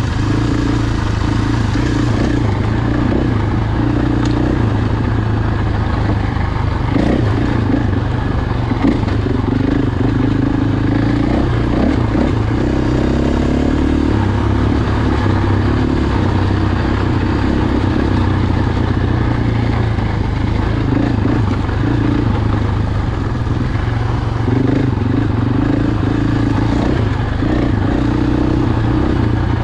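Motocross bike engine running continuously, its pitch shifting up and down with the throttle, with scattered clatter.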